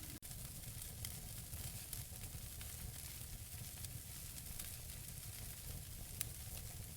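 Natural wood fire burning in a fireplace: a steady hiss over a low rumble, with scattered sharp crackles from the burning logs and one louder pop about six seconds in. The sound drops out for an instant near the start.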